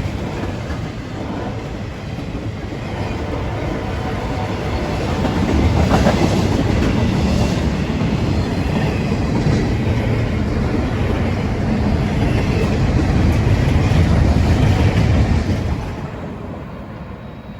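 CSX train passing close by on the track, its cars running past continuously. The sound builds about five seconds in, stays loudest through the middle, and drops off sharply about two seconds before the end.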